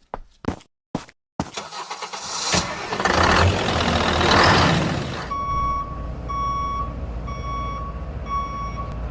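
A few sharp clicks, then an engine starts and runs. From about halfway through, a reversing beeper sounds a steady beep a little more than once a second over the engine's low hum.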